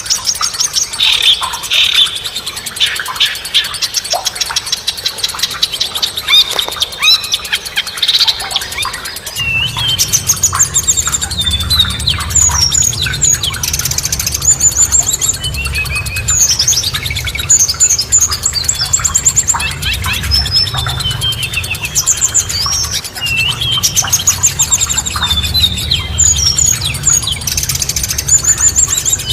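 Songbirds singing: rapid high chirps and trills, then, from about a third of the way in, repeated whistled phrases of rising and falling notes over a steady low rumble.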